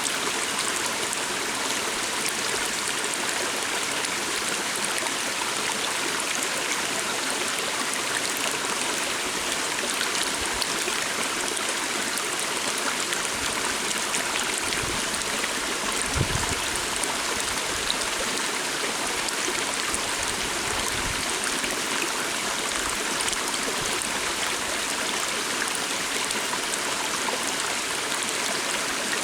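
Calm forest stream flowing steadily, a continuous rush of water with small splashes and trickles through it. A few low thumps come about halfway through.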